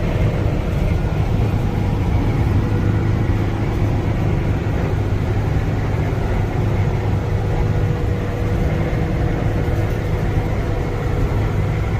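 Kia Bongo 3 cargo truck's engine running steadily with a low, even rumble.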